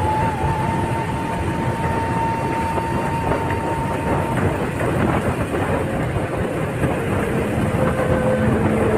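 Steady, loud rumbling noise of a moving vehicle, with a thin steady whine over it that stops about four seconds in.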